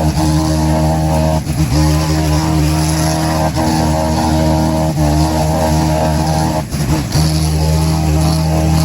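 An engine running at a steady speed, a continuous droning hum with a few brief dips in level.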